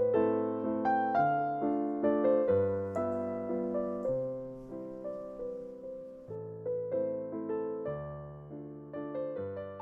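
Slow, gentle solo piano background music: single notes and chords struck one after another, each ringing and fading away, over soft bass notes.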